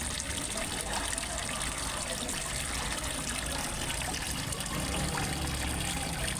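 Water trickling and splashing steadily into a fish pond, as from a small waterfall.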